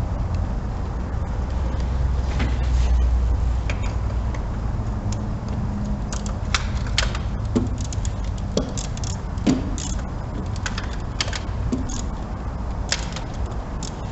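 Scattered sharp clicks and clinks of hand tools and parts being handled in an engine bay, growing frequent about halfway through, over a steady low rumble.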